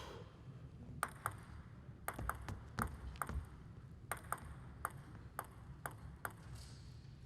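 Table tennis ball clicking: about a dozen light, sharp pings of the plastic ball striking the table and bats, at an uneven pace, over a low hall hum.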